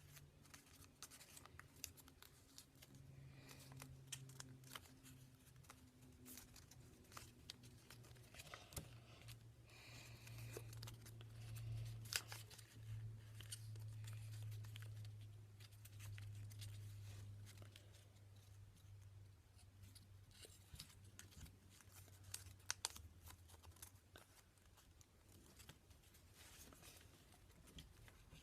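Faint rustling, creasing and crinkling of a sheet of origami paper being folded by hand, with scattered small clicks, over a low steady hum.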